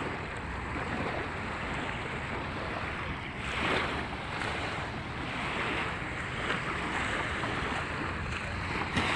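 Small waves from the Volga washing onto a sandy beach in uneven swells, with wind buffeting the microphone.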